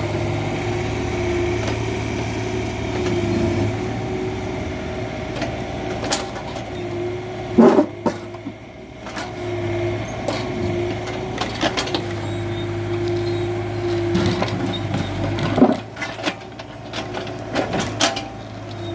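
Excavator's diesel engine running steadily while the machine works, with several sharp knocks and clanks scattered through. The engine sound dips briefly twice, about eight seconds in and again later.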